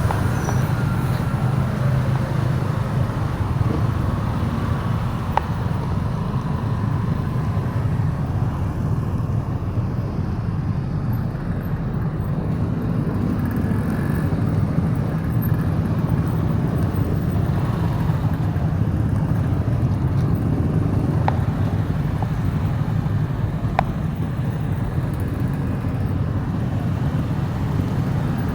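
Motorbike being ridden along a road: steady engine and road rumble.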